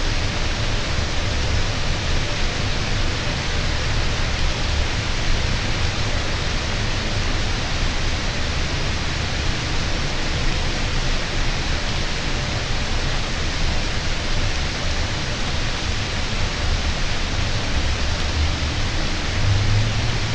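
Steady rain falling, an even hiss with no breaks, over a low, uneven rumble.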